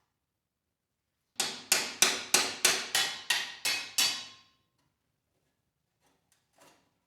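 A hammer struck about nine times in quick succession, roughly three blows a second, each ringing briefly before the next.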